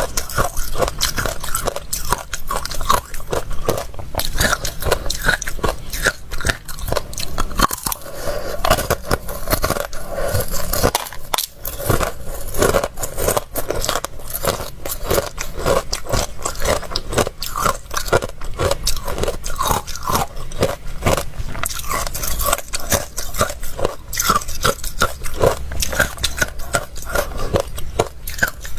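Ice being bitten and chewed close to the microphone: dense, continuous crunching and cracking of crunchy ice between the teeth.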